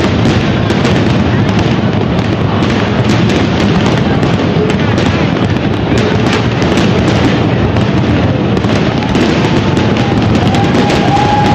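Japanese aerial fireworks in a dense barrage: a continuous rumble of bursts and crackling, broken by many sharp reports. A few faint tones glide up and down in the second half.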